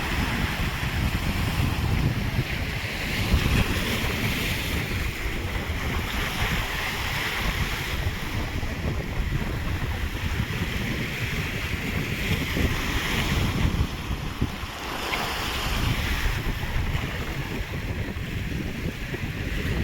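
Sea waves breaking and washing in, surging every few seconds, with wind buffeting the microphone.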